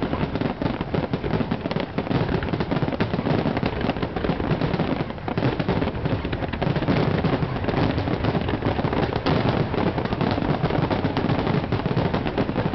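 Aerial fireworks bursting in a dense, continuous barrage: overlapping bangs and crackling follow one another with no pause.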